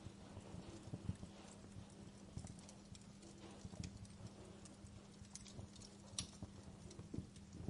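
Wood fire crackling, with irregular pops and snaps, a couple of sharper ones about a second in and near six seconds, over a steady low hum.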